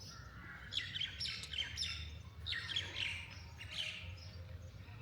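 Songbirds chirping and singing: two runs of quick, high chirps, one about a second in and another around two and a half seconds, over a steady low background rumble.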